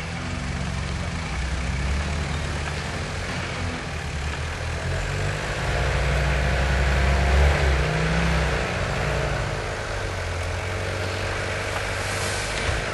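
Off-road 4x4's engine working under load as it crawls up a rough bank, revving up and down, loudest about seven seconds in. A short sharp knock near the end.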